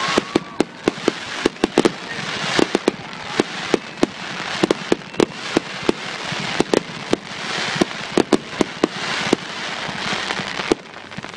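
Fireworks going off: a rapid, irregular string of sharp bangs and pops over a continuous crackling hiss of burning effects.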